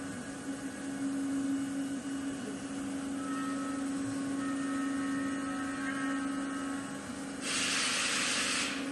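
Suntec ST-2030 5-axis CNC router running with a steady hum, with higher whining tones joining in through the middle. Near the end a hiss of about a second cuts in and stops.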